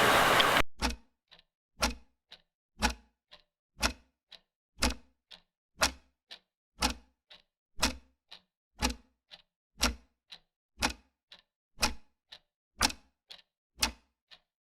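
Mechanical clock ticking: one loud tick about every second, with a fainter tick between each pair. A short burst of loud hiss-like noise comes at the very start.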